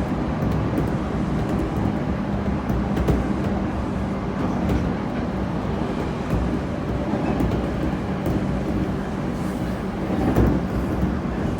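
JR Kyushu 811 series electric train heard from inside the car while running: a steady rumble of wheels on rail with the hum of its self-ventilated traction motors, and faint scattered clicks.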